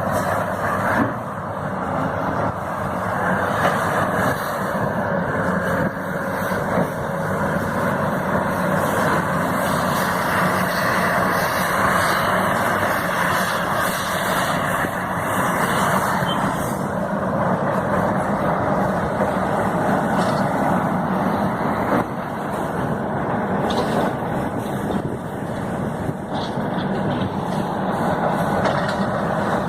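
Engine of heavy construction machinery, such as an excavator or bulldozer, running steadily under work.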